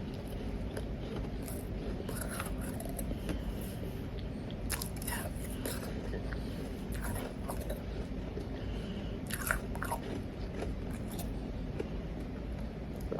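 Close-miked biting and chewing of powdery ice: short crisp crunches come in scattered clusters, loudest about five seconds in and again near ten seconds, over a steady low hum.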